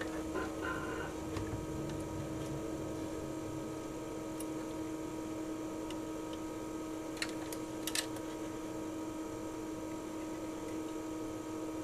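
Steady electrical hum from bench equipment, holding several fixed pitches, with a few short sharp clicks of small tools about seven and eight seconds in.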